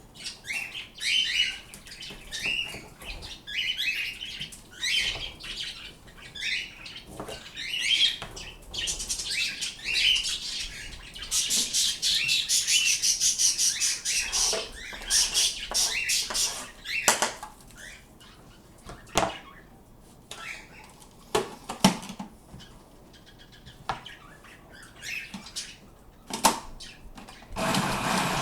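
Pet birds chirping and chattering, with short rising and falling calls and a dense run of rapid chatter about halfway through, a few sharp knocks between them. Near the end a loud steady machine noise starts up.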